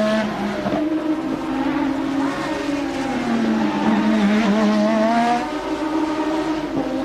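Late-1980s Formula One race car engines running at high revs. The pitch climbs and falls with throttle and gear changes, and the loudness drops about five and a half seconds in.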